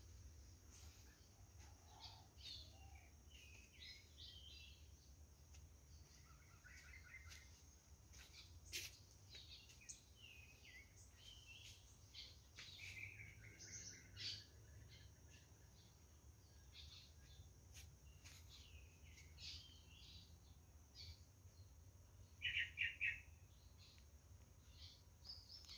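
Faint birds chirping in scattered short calls, with a louder call of three quick notes near the end, over a low steady hum.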